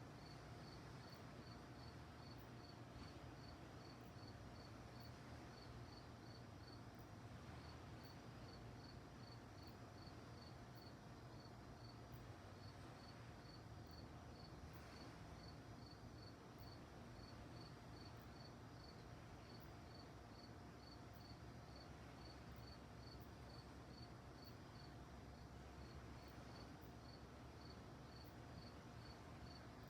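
Crickets chirping faintly at night, a steady train of short high chirps at about three a second, over a low steady rumble.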